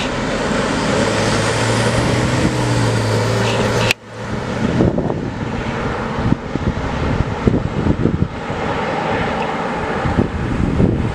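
Fire engine driving on a street: a steady engine drone with tyre and traffic noise, and an abrupt cut about four seconds in.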